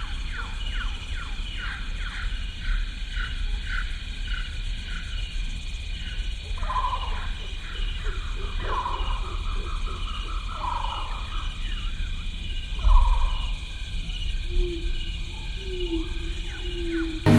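Amazon rainforest animal chorus: a steady insect trill under a run of quick falling chirps, about two a second, followed by a few slower, louder calls in the middle, over a low rumble.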